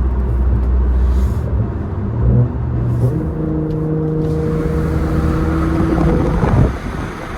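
Straight-piped, catless B58 turbo inline-six of a BMW 540i running under way. It goes from a low drone to a higher note about two seconds in, holds that steady note, then drops away briefly near the end as the throttle comes off.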